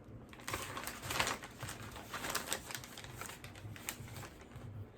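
Plastic packaging and a plug-in cable being handled: irregular rustling and small clicks, starting about half a second in.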